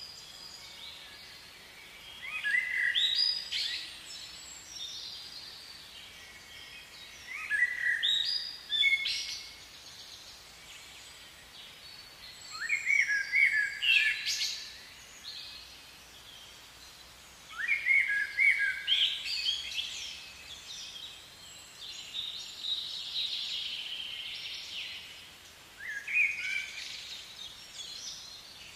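A songbird singing: short phrases of quick chirps and rising notes, repeated about every five seconds, over faint outdoor background noise.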